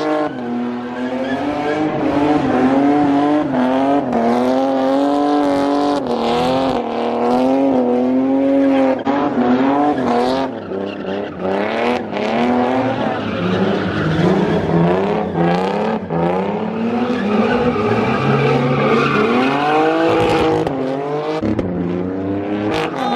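A car engine revving high and wavering up and down, with its tyres squealing and skidding during a burnout.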